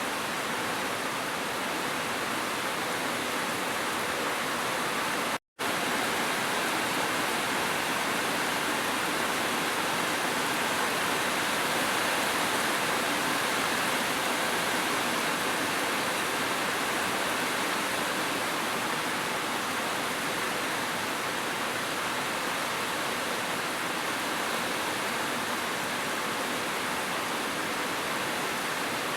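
Rain and a waterfall: a steady, even rush of falling water, broken by a split-second dropout to silence about five seconds in.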